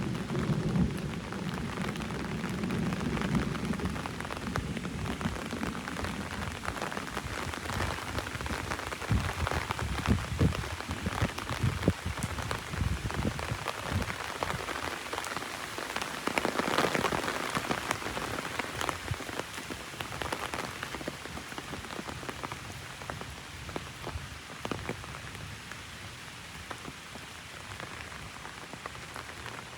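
Heavy rain drumming on an umbrella, a dense patter of drop strikes. A low rumble of thunder fades away over the first few seconds, and the rain eases slightly toward the end.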